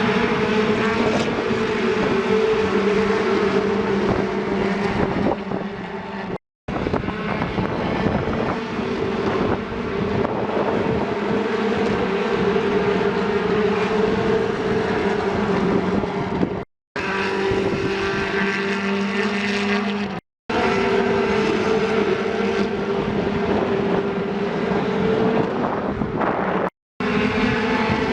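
Steady engine drone at a constant pitch over a noisy rush, broken by several abrupt cuts into short separate stretches.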